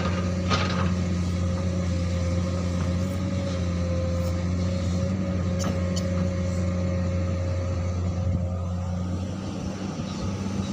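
Komatsu PC200 hydraulic excavator's diesel engine running steadily, a low hum with a thinner steady whine above it that fades out late on.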